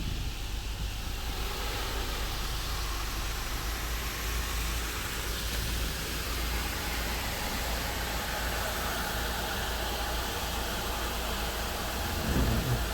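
Belanger FreeStyler automatic car wash running over a car: a steady rushing hiss with a low rumble underneath. Near the end, heavy low thuds and drumming begin.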